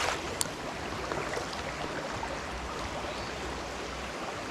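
Steady rush of flowing river water, with a short sharp click about half a second in.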